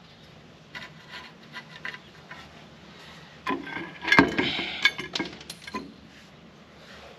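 Metal clinking and knocking as bolts and hand tools are worked against the steel loader mounting bracket: a few light clicks, then a cluster of sharper knocks and clinks in the second half, the loudest a little past the middle.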